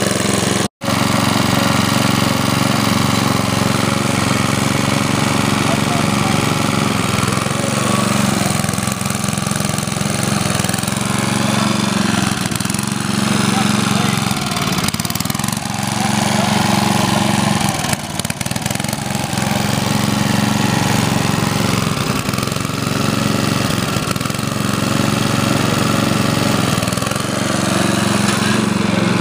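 Lawn tractor's 8 hp Tecumseh single-cylinder engine running steadily, with one brief cut-out under a second in.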